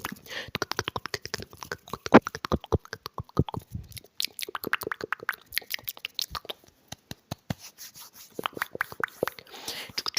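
Close-miked ASMR mouth sounds: a rapid, irregular run of wet clicks and smacks, thickest about two to four seconds in.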